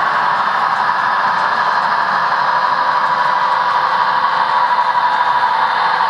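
Model freight train running on the layout track: a steady rolling hiss with a faint motor whine, unchanged throughout.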